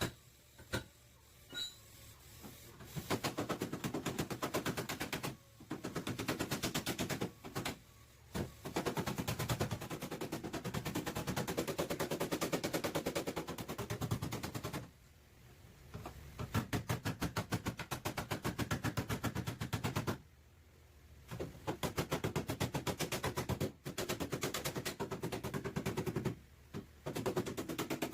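Pneumatic air hammer striking sheet metal in rapid, evenly repeated strokes. It runs in bursts of a few seconds with short pauses between, after a few scattered knocks at the start.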